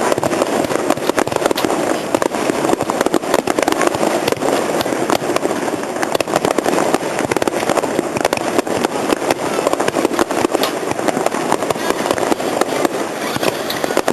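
Fireworks display: a continuous rapid barrage of overlapping bangs and crackles with no break.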